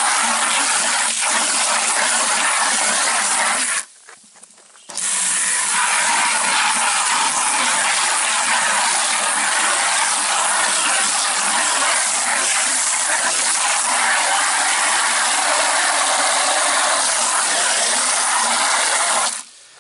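Water running hard from a hose into a bucket to dissolve fertiliser salts. The flow cuts off for about a second around four seconds in, then runs on steadily until it stops near the end.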